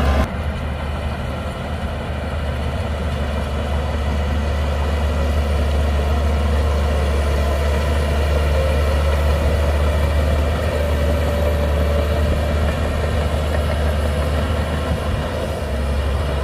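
Shantui DH17C2 crawler bulldozer's diesel engine running steadily with a strong low note.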